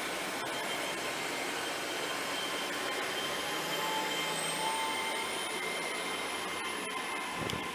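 Great Western Railway Class 800 bi-mode train pulling out on diesel power. Its underfloor engines run steadily, with a high whine that rises in pitch as it gathers speed.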